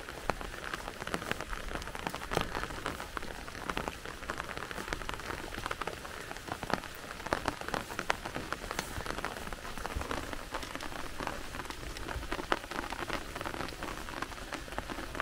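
Steady rain falling on grass and leaves, with many sharp separate drop ticks.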